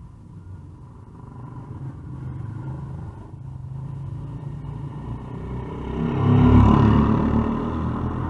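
Pit bike engine running, growing louder as it approaches, loudest about six and a half seconds in, then easing off as it goes by.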